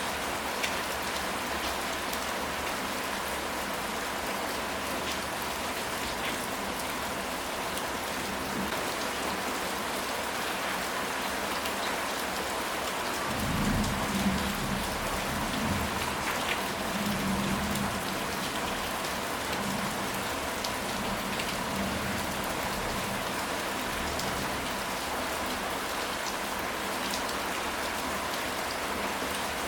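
Steady rain falling, with scattered drops ticking on a surface. About halfway through, a low rumble of thunder rolls for several seconds and fades.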